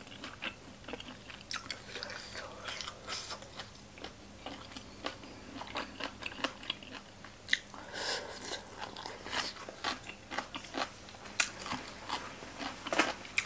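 Close-up chewing of shredded green papaya salad: crisp crunching and wet mouth clicks as the strands are bitten and chewed.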